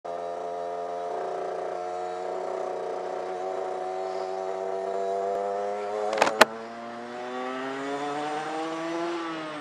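Rieju RS2 Matrix Pro motorcycle engine running at a steady low speed, then rising in pitch as it accelerates and dropping sharply near the end. A sharp double knock, the loudest sound, about six seconds in.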